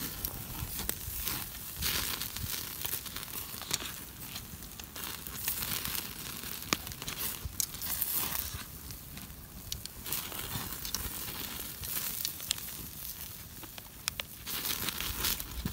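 Wood campfire crackling, with many irregular sharp pops and snaps over a steady hiss.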